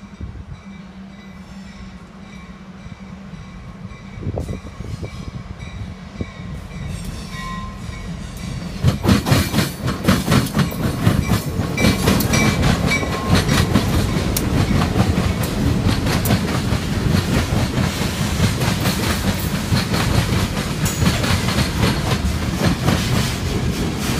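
Norfolk Southern diesel freight train approaching with a steady low engine rumble. From about nine seconds in it becomes much louder as the locomotives and cars pass close by, the wheels clacking rapidly over the rail joints.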